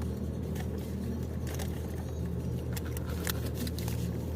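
Toyota Innova 2.8's four-cylinder turbo-diesel engine running with a steady low hum, heard from inside the cabin. Scattered light clicks and rustles of food packaging are heard over it.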